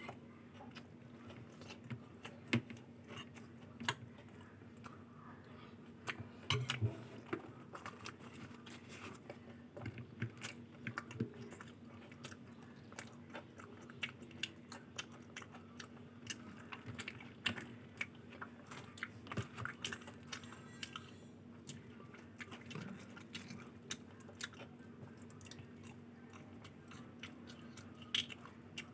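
Close-miked chewing and biting of a meal of luchi, ghughni and aloor dum: wet, irregular mouth clicks and smacks, several a second, with a faint steady hum underneath.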